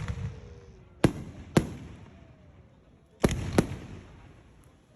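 Aerial fireworks shells bursting: two pairs of sharp bangs, the bangs in each pair about half a second apart, each trailing off in a fading rumble.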